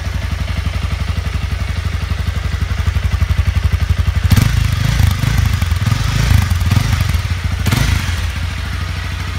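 Honda CB300F's single-cylinder engine running through its stock exhaust, idling with a steady pulse. It is revved several times from about four seconds in, then settles back to idle near the end.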